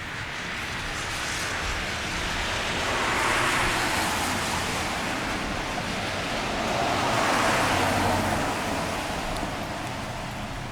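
Car tyres hissing on a wet street as two vehicles pass one after the other, swelling and fading about four seconds apart, over steady rain.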